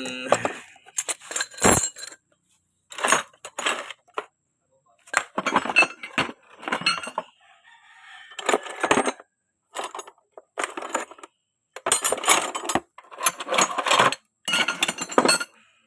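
Metal hand tools clinking and rattling in repeated short bouts, as a 12 mm combination wrench is picked out of a tool set.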